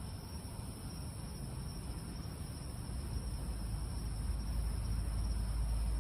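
Night insect chorus, a steady high buzz of crickets. A low rumble swells from about halfway through and grows louder toward the end.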